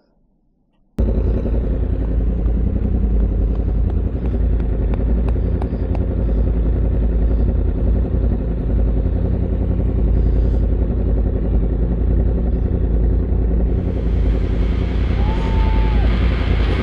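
Motorcycle riding at speed, heard from the rider's helmet camera: a steady mix of engine and wind noise that starts abruptly about a second in. A brief tone sounds near the end.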